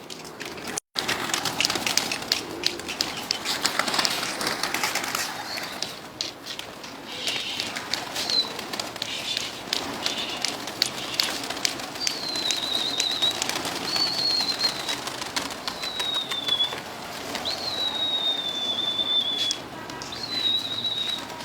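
Domestic pigeons cooing, with many short clicks and taps among them. From about halfway through, a series of long, high, slightly falling whistles comes every second or two.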